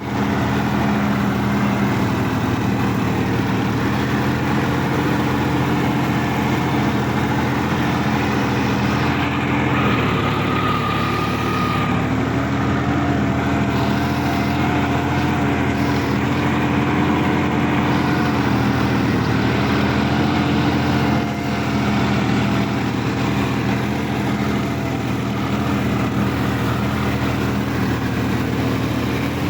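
Sonalika DI 50 RX tractor's diesel engine running steadily, its pitch shifting slightly a couple of times. A faint high tone sounds over it for a few seconds in the middle.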